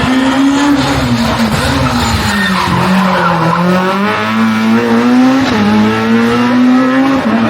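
Rally car engine driven hard through a stage, its pitch rising and falling repeatedly as the driver lifts off and gets back on the throttle.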